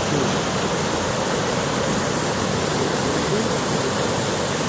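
Kali Gandaki river in flood: a steady rush of fast-flowing water.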